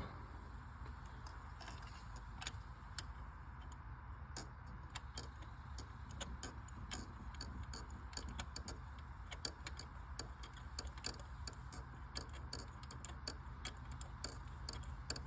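Faint, irregular small metallic clicks and ticks from hand tools working on a spark plug, coming thicker after about four seconds, over a low steady hum.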